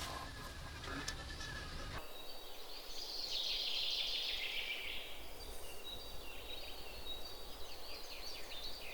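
Quiet background ambience that changes abruptly about two seconds in, after which faint, high bird chirps come in and out, with a brief high, hissing buzz in between.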